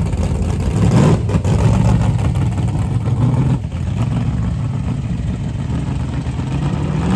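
Red early second-generation Chevrolet Camaro's engine rumbling as it pulls away. The revs rise about a second in, the note drops back around three and a half seconds, and it revs up again near the end.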